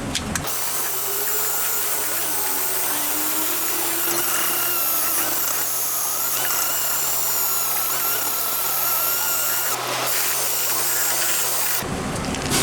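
Power drill running steadily with a cleaning attachment, scrubbing the wheel hub surface clean. It starts about half a second in and stops shortly before the end.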